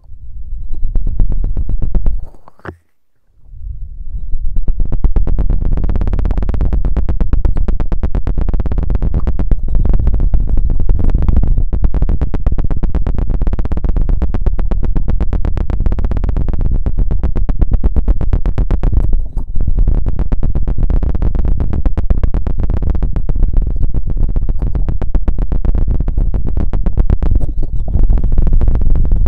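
Very fast, dense scratching and knocking with a rod on a sensitive ASMR microphone, heavy in the low end. It stops briefly about three seconds in, then runs on without a break.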